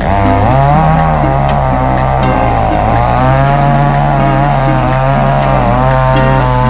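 Chainsaw running under load, cutting through a coconut palm trunk, its engine pitch dipping and rising as it works through the cut.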